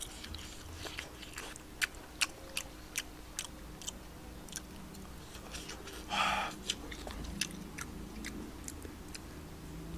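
A person chewing and eating close to the microphone, with many small wet mouth clicks. A short breathy sound about six seconds in.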